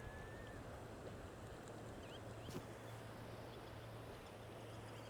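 Faint bird calls: a thin whistle near the start and a short chirp about two seconds in, over a quiet outdoor background with a steady low hum.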